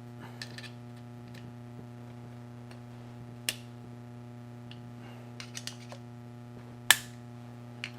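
Screwdriver prying a metal pin into a washing machine's clutch assembly: scattered small metallic clicks and taps, a sharp one about three and a half seconds in and the loudest near the end, over a steady low hum.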